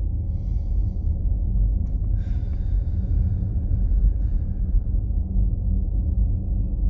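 Steady low road and tyre rumble inside the cabin of a moving electric car. About two seconds in, a hiss joins it and fades away by about five seconds.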